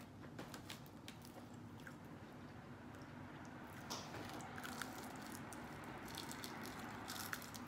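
Eating sounds: chewing, then a crunchy bite into crispy fried chicken about four seconds in, with the crisp crust crackling as it is chewed.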